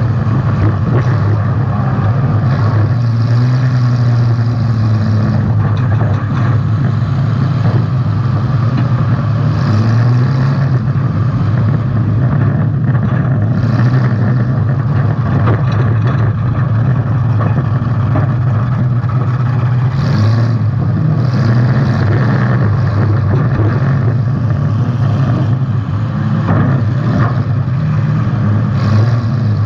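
Demolition derby car's engine running hard, heard from on board the car, its pitch wavering a little as the throttle changes.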